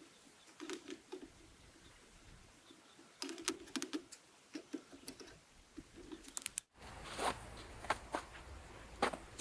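Scattered light clicks and rustles, as of small things being handled, coming in short clusters. A sudden break about two-thirds of the way in gives way to a louder, steadier background with more clicks.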